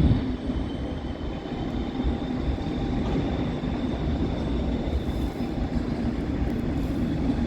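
Train running at a station platform: a steady low rumble and hiss with a faint high tone.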